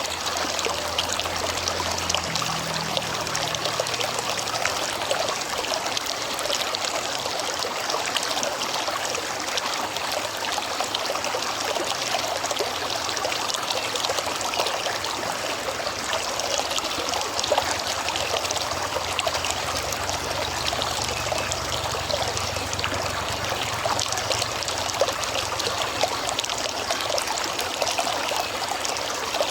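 River water flowing steadily, a continuous rushing and trickling.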